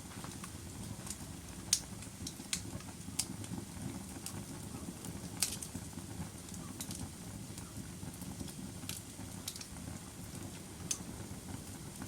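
Log fire crackling: a steady low rumble of burning wood with irregular sharp pops, two of them louder, one near the start and one about halfway through.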